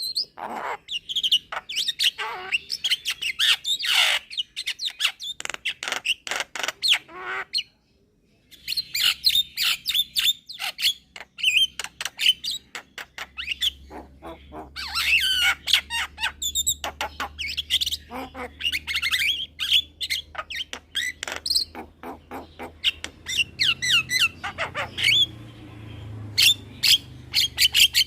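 Young Javan myna singing hard: a fast, varied run of sharp clicks, whistled notes and harsh squawks, with a short pause about eight seconds in.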